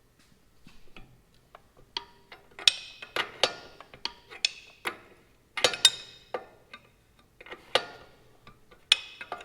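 Wrench tightening a nut on a bolt: irregular metallic clicks and clinks, some ringing briefly, as the wrench is turned and reset on the nut.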